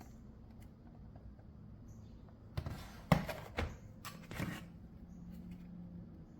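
A few short clicks and rustles in a cluster midway, the loudest a sharp click, over a faint steady low hum.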